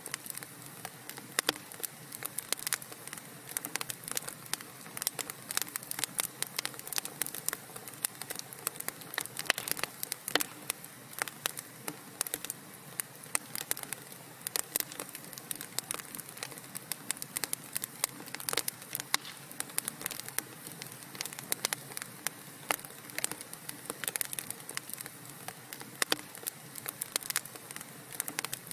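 Wood fire burning in a fireplace: a dense, irregular run of sharp crackles and pops over a soft steady hiss.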